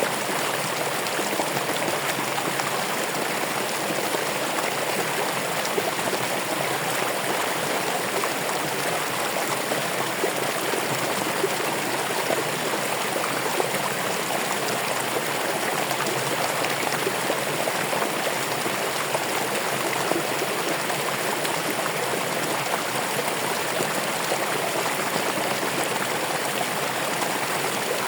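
Stream water running steadily, an even rushing and trickling without breaks.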